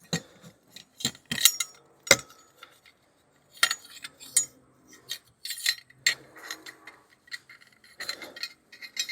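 Scattered light clinks, taps and knocks of small objects being handled and set down, with a few short rubbing sounds in between.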